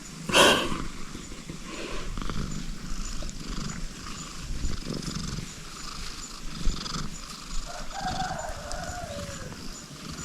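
Tabby cat purring gently under head scratches, a low pulsing rumble. A brief loud sound comes about half a second in, and a short call falling in pitch comes near the end.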